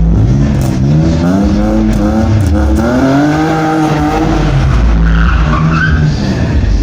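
Drift car's engine revving, its pitch climbing for about two seconds and then falling back, with a brief tyre squeal a little after the middle as the car slides.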